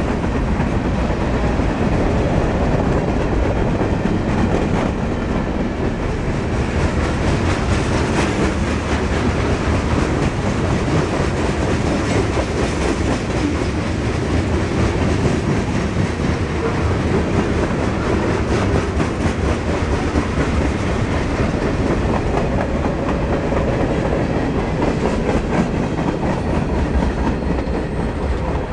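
A mixed freight train's cars rolling past at close range: steel wheels clattering on the rails in a steady, loud rumble.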